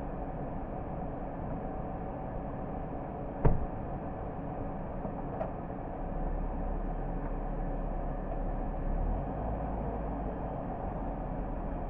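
A car driving, with steady road and engine noise. A single sharp knock comes about three and a half seconds in and a fainter click about two seconds later. A deeper rumble sets in around halfway.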